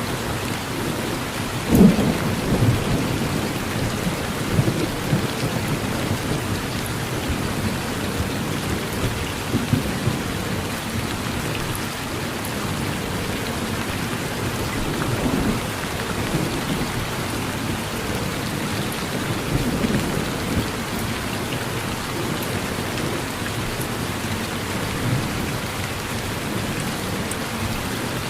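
Steady rain falling on a porch, with a loud crack of thunder about two seconds in and several lower rumbles of thunder rolling through the rest.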